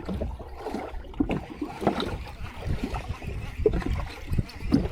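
Sea water sloshing and slapping against a fishing boat's hull in uneven surges, with a few light knocks.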